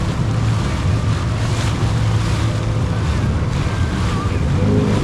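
Jet ski engine running steadily at speed, with water rushing past and wind buffeting the microphone.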